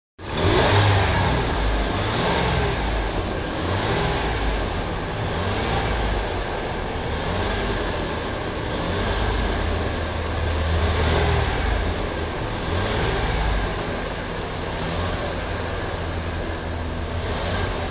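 Car engine revving up and down as the gas pedal is pumped, its pitch and loudness rising and falling several times.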